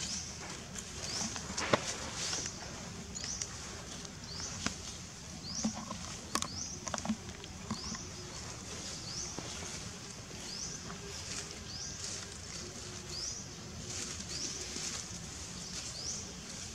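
A bird's short, high, rising chirp, repeated about once a second over steady outdoor background noise, with a few sharp taps, the loudest about two seconds in.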